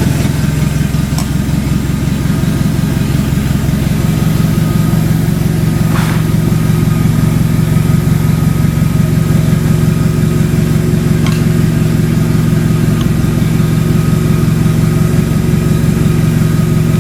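Subaru EJ25 2.5-litre SOHC flat-four engine idling steadily at an even pitch.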